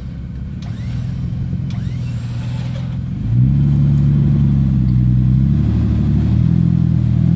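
Jeep Wrangler engine working under load as the Jeep climbs a rock ledge with help from a tow line; the engine note steps up and gets louder about three seconds in, then holds steady.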